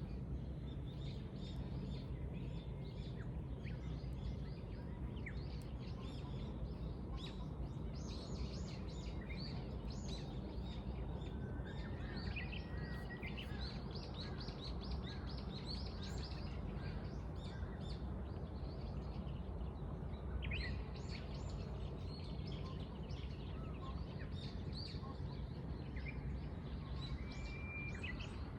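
Many small birds chirping and twittering in short, scattered calls, with a couple of brief whistled notes, over a steady low rumble of background noise.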